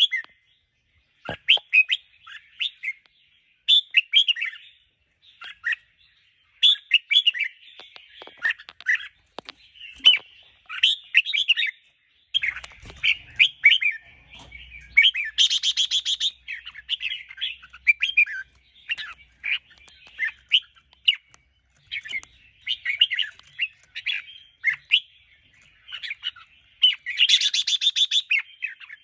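Red-whiskered bulbul singing short warbled phrases, one every second or two, with a louder harsh buzzy call twice, once about halfway and once near the end.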